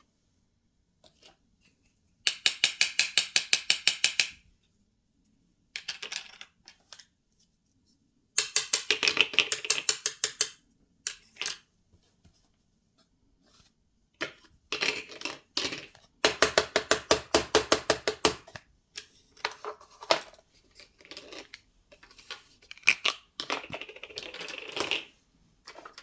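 Small plastic toy kitchen pieces being handled, giving runs of rapid clicking, about ten clicks a second, in bursts of one to two seconds with quiet pauses between.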